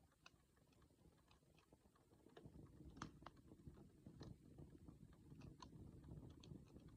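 Wood campfire crackling softly: irregular sharp pops and ticks over the low rumble of the burning fire, with one louder pop about three seconds in.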